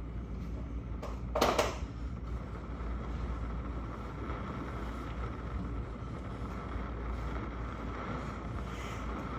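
Steady low rumbling background noise with a light hiss, broken once about one and a half seconds in by a brief sharp knock.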